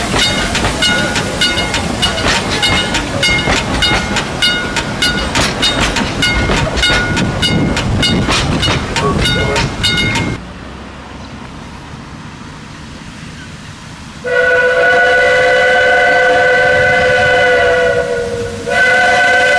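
Steam locomotive NG123 working, with a rapid, even rhythm of beats and tones pulsing with them. After a sudden cut to a quieter stretch, its steam whistle sounds a long multi-note blast, breaks briefly, and blows again.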